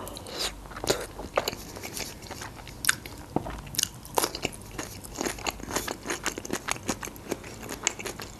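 Close-miked chewing of soft stuffed dolma, with a crunchy bite into a raw cucumber slice about halfway through and many small wet mouth clicks throughout.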